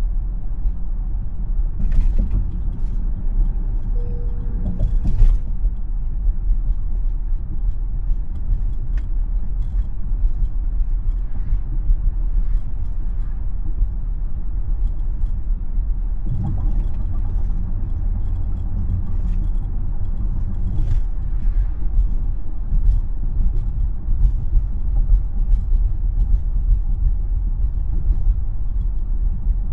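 Steady low road and tyre rumble of a moving Tesla electric car, with scattered light clicks and knocks over the top.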